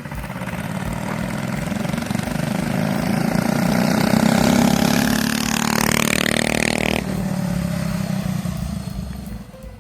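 Mini bike's small engine, fitted with a PZ19 round-slide carburetor, running under throttle and growing louder over the first few seconds. A harsher, brighter burst from about five and a half to seven seconds cuts off abruptly. The engine fades near the end.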